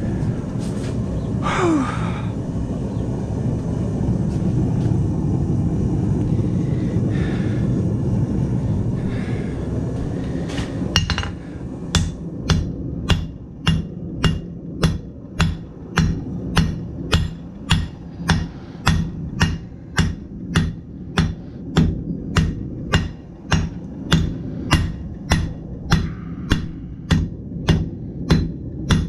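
A steady low rumble for about the first ten seconds. Then a blacksmith's hammer starts striking metal on the anvil in an even rhythm of nearly two blows a second, running on to the end.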